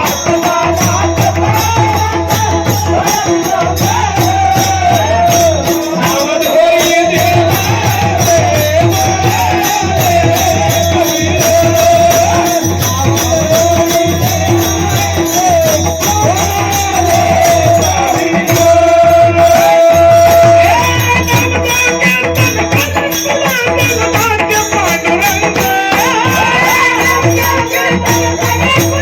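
Kirtan singing: a man's strong, full voice sings a devotional line in a long, wavering melody over a steady drone, with fast, even jingling strokes of small hand cymbals keeping the rhythm. About two-thirds of the way through he holds one long note.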